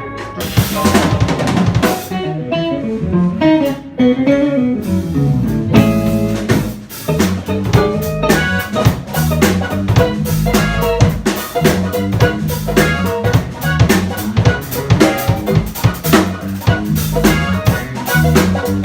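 Live jazz band of guitar, piano, bass and drum kit playing a tune. The opening is loose and sparse, and about six seconds in the drums settle into a steady groove.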